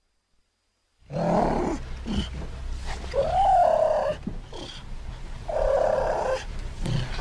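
A series of wild cat calls made from cheetah and cougar recordings, starting about a second in after silence. The calls are short and separate, and one near the middle rises and then falls in pitch.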